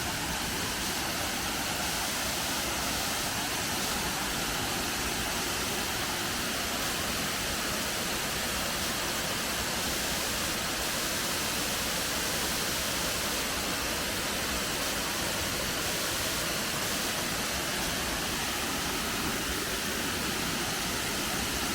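Ellinjaa Falls pouring into its plunge pool: a steady, unbroken rush of falling water.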